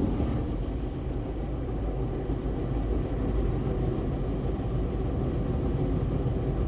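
Istobal Flex5 automatic car wash's top brush spinning and scrubbing over the car body, a steady low churning noise with the wash machinery running; the brush is working hard against the car.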